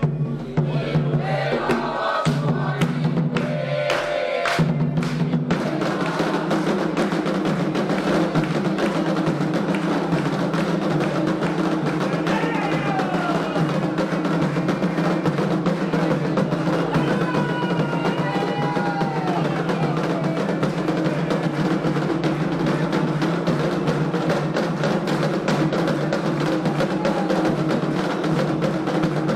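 Atabaque hand drums of a Candomblé ceremony playing a fast, dense rhythm, with short breaks at first and unbroken from about five seconds in. Faint voices rise over it a couple of times.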